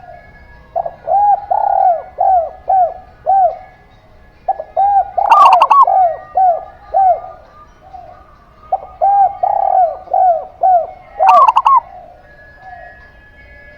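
Zebra dove (perkutut) and spotted dove (derkuku) cooing. There are three phrases of about five to seven rapid arched notes each, starting about one, four and a half and nine seconds in. Twice a higher, louder cluster of notes cuts in.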